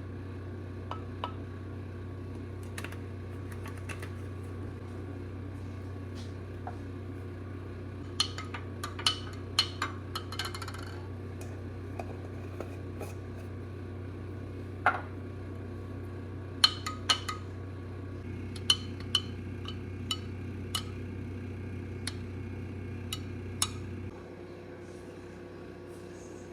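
Dishes and utensils clinking and clattering in a kitchen, a scatter of separate knocks and clinks with a busier run about eight seconds in. Under them a steady low appliance hum runs and cuts off a couple of seconds before the end.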